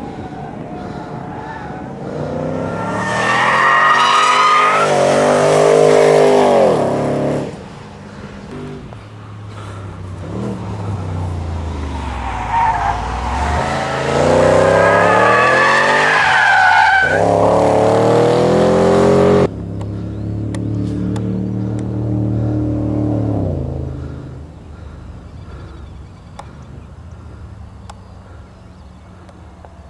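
HSV Maloo ute's cammed V8 driven hard around a race circuit, engine pitch climbing and falling as it accelerates and shifts, with tyres squealing on the two loudest passes. The sound cuts off abruptly about two-thirds of the way through, and the engine then fades into the distance.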